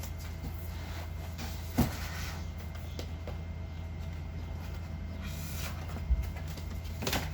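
Handling noise as equipment and packaging are moved about: a sharp knock about two seconds in and a dull thump near six seconds, over a steady low hum.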